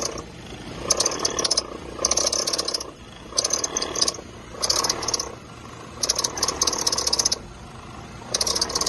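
Worn A/C compressor pulley bearing on a running Nissan Versa, making a rattling, grinding noise over the idling engine. The noise comes and goes in bursts of about a second, roughly six times. It is the sign of a failed internal bearing in the compressor pulley.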